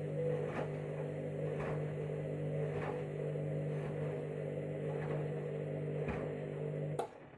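Candy 7 kg Smart Touch washing machine's drum motor running with a steady hum while the KG Detector turns the drum to weigh a mini load, with soft knocks roughly once a second. The motor cuts off with a click about seven seconds in.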